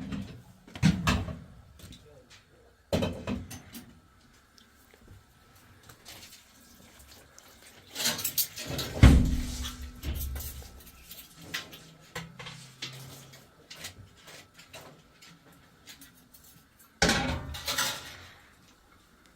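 Intermittent knocks and clattering, with a heavy thump about nine seconds in and a rustling, scraping burst near the end.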